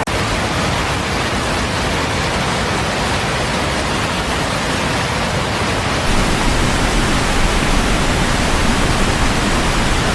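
Steady rushing of water, becoming louder with more low rumble about six seconds in.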